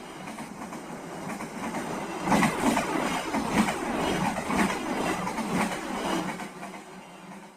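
Brantas passenger train passing, its wheels clacking over the rail joints in a rhythm of about two knocks a second. The sound swells about two seconds in and fades near the end.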